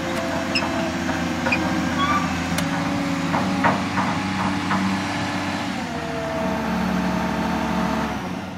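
Hitachi 400 LC excavator's diesel engine running steadily, with scattered sharp knocks and clanks over it; the engine note shifts slightly about six seconds in and the sound falls away near the end.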